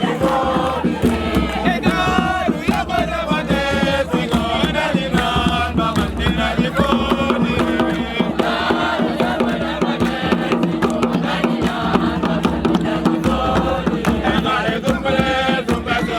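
A crowd of young voices chanting a song together, loud and continuous, with sharp beats running through it.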